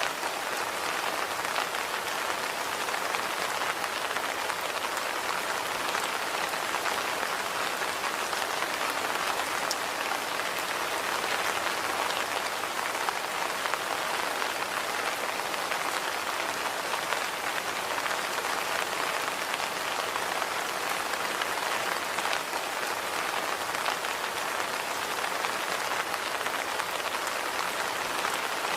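Steady rainfall, a dense even patter of raindrops pattering on surfaces with many small drop ticks, no change in strength.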